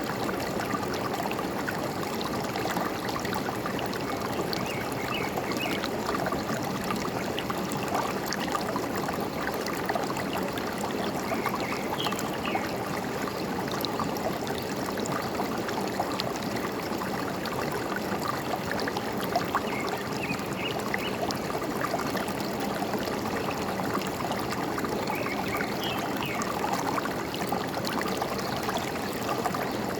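Forest stream trickling and gurgling steadily, with short bird chirps every few seconds.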